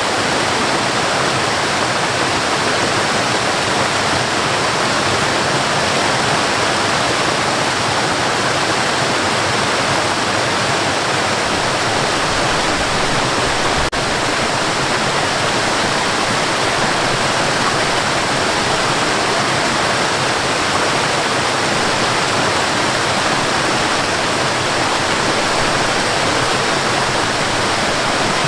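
Waterfall: a steady, dense rush of falling water with no change in level, broken only by a momentary dip about halfway through.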